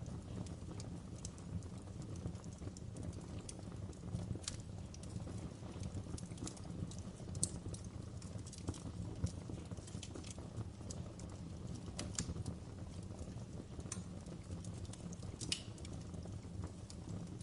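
Wood fire crackling: irregular snaps and pops of burning wood over a steady low rumble of the flames, with a few sharper cracks standing out now and then.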